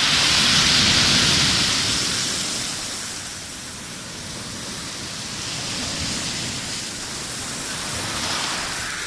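Rough sea's waves breaking and washing on the shore: a loud surge in the first two seconds that ebbs away by about four seconds, then smaller surges.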